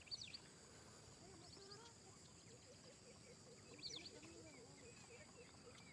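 Faint wild birdsong: scattered short high chirps and whistles, with the loudest burst about four seconds in. From about halfway through, a low note repeats about three times a second over a faint steady high hum.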